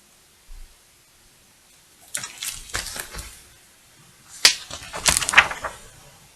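Paper rustling and crackling as the pages of a picture book are handled and turned, in two short bouts, the second louder.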